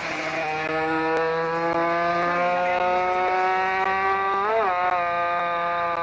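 Rally car engine pulling under load, its pitch climbing steadily for about four seconds; a quick gear change briefly drops and recovers the pitch, and it then runs on steady.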